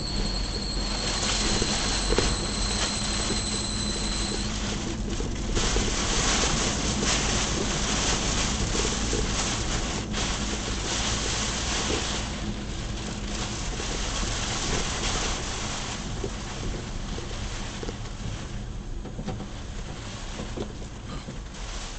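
Heavy typhoon rain with gusting wind: a dense, steady rush, with wind buffeting the microphone and a low rumble underneath. A thin, high, steady whine is there at the start and stops about four seconds in.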